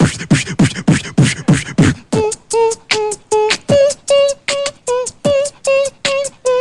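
Beatboxer performing vocal percussion: deep kick-drum sounds that drop in pitch, about four a second, then, about two seconds in, a hummed tune sung in short, evenly spaced notes over the beat.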